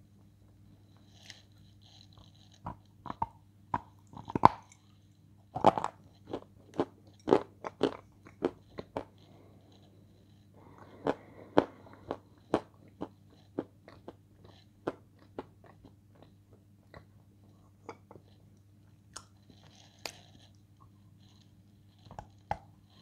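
A person chewing food close to the microphone, with sharp mouth clicks one or two a second, thickest in the first half, and a bite near the end. A low steady hum runs underneath.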